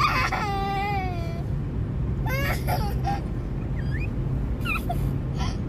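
A young child whining and crying: one drawn-out wail of about a second and a half, then a few short whimpers. A steady low rumble of road noise runs underneath.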